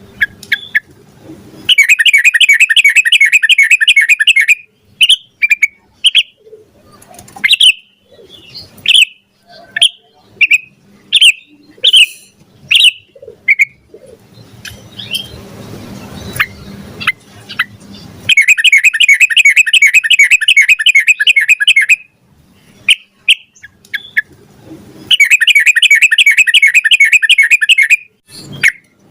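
Yellow-vented bulbul (trucukan) singing: loose single chirps and short phrases, broken three times by long, loud runs of rapid repeated notes, each lasting several seconds.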